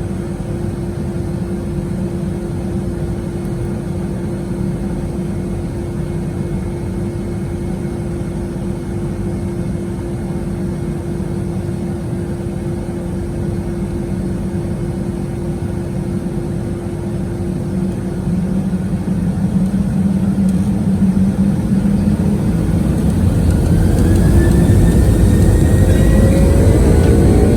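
Boeing 757-200's jet engines running steadily at low thrust, then, about two-thirds of the way through, spooling up with a rising whine and growing louder as thrust is set for takeoff.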